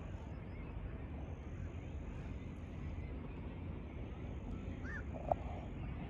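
Steady outdoor background noise with a couple of brief bird calls about five seconds in.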